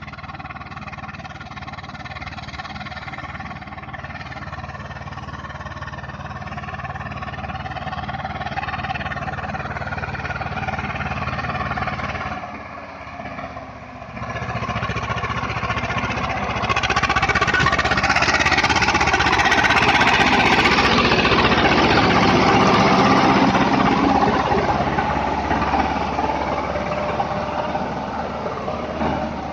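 Swaraj 724 tractor's diesel engine running. It grows steadily louder, drops away briefly near the middle, then comes back louder for several seconds before easing off a little.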